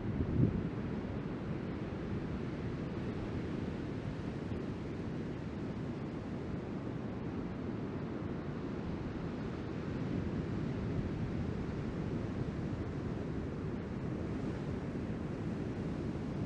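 Surf and wind at the shore: a steady low rush of breaking waves with wind buffeting the microphone, one gust a little louder just after the start.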